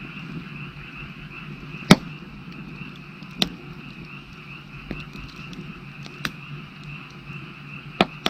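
Wood fire crackling, with several sharp pops, the loudest about two seconds in, over a steady chorus of frogs calling.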